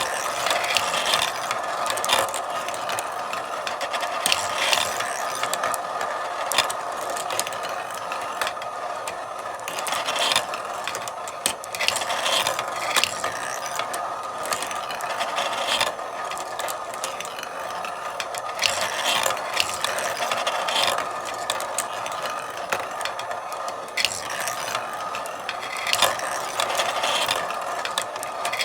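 Marbles rolling continuously along a marble run, a steady rolling rattle broken by frequent irregular clicks and clacks as marbles drop and strike the track.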